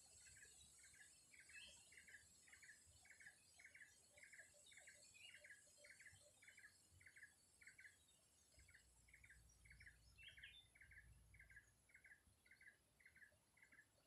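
Faint bird calls: one bird repeats a short note about twice a second, very steadily, with a few higher chirps mixed in.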